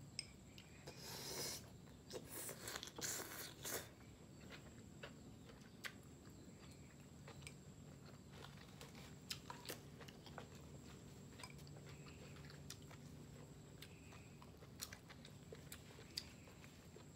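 Close-up chewing and biting of grilled beef rolls wrapped around enoki mushrooms and vegetables, with a few louder, noisier mouth sounds in the first few seconds and scattered small clicks after. A faint steady hum runs underneath.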